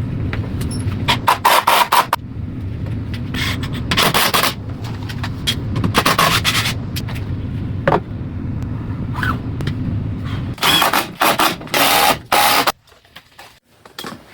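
Power saw running steadily, with several louder stretches of the blade cutting through a wooden stud to trim it to height. The motor stops suddenly near the end.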